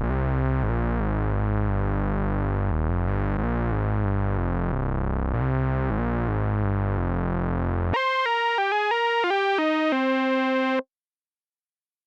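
GForce Minimonsta 2 software Minimoog emulation playing its '110 South' preset. Low, thick sustained chords give way about 8 s in to a few brighter single notes that step downward, ending on a held note. The sound stops abruptly near the end.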